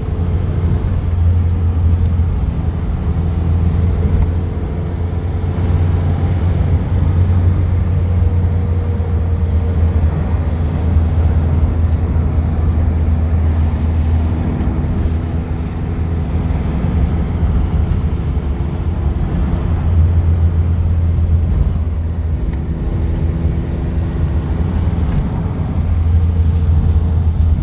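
Classic car engine and road noise heard from inside the cabin while driving, a steady low drone whose engine note shifts slightly up and down.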